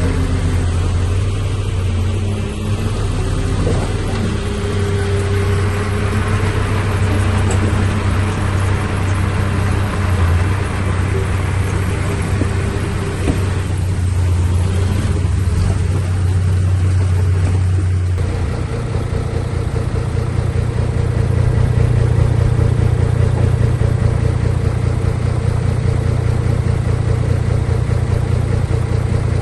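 Heavy diesel engines of earthmoving machinery running continuously, with low engine notes that shift under load. About two-thirds of the way through, the sound changes abruptly to a steadier, deeper engine note.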